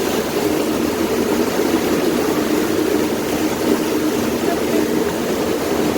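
Passenger boat's engine running steadily under way, a constant drone with a band of low tones over a haze of water and wind noise.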